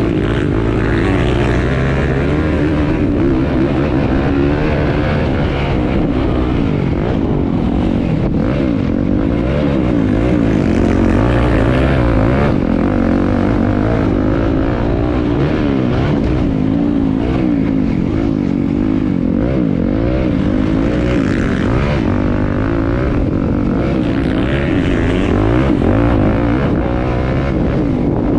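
Motocross bike engine running hard, its revs rising and falling over and over.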